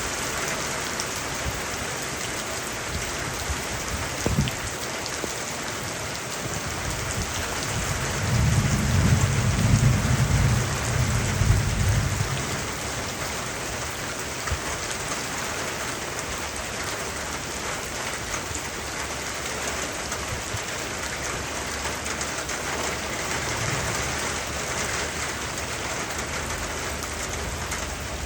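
Heavy rain pouring steadily. A low rumble comes in about eight seconds in and lasts about four seconds, the loudest part.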